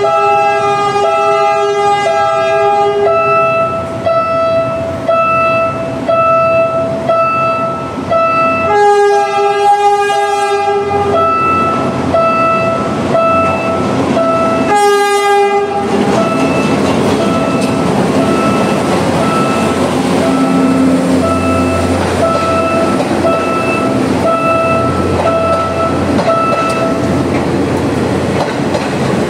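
Philippine National Railways train horn sounding three blasts: a long one, a shorter one about nine seconds in and a brief one about fifteen seconds in. The train then rumbles past with wheels clattering over the rail joints. A repeated warning beep sounds throughout and stops near the end.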